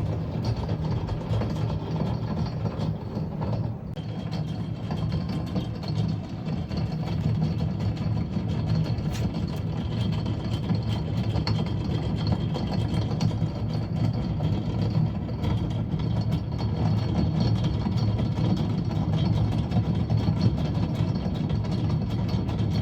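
Chain-like mechanical running heard through a kitchen wall: a steady low hum overlaid with continuous fine, rapid rattling that does not stop.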